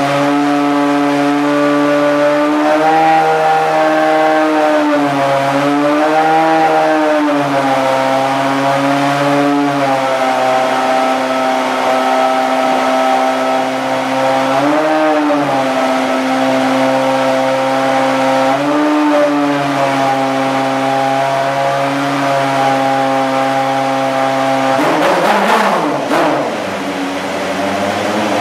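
Lexus SC430 GT500 race car's V8 engine idling during warm-up, a lumpy high idle whose pitch swells up and back down every few seconds with light throttle blips. Near the end the revs rise and then sag and waver briefly.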